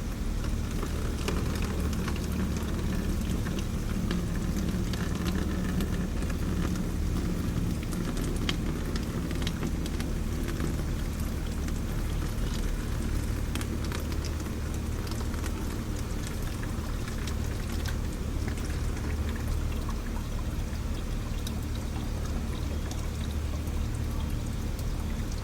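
Engine coolant pouring steadily from a dirt bike's water-pump drain hole and splashing into a jug, with a continuous patter of drops.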